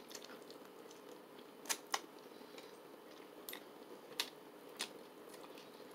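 Quiet crunchy chewing and biting of a fried chicken wing section, a handful of short crisp clicks spread out over a few seconds, over a faint steady hum.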